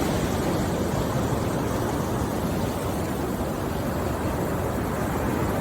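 Steady rain noise: a dense, even rushing hiss, heaviest in the low range, with no separate drops or other events standing out.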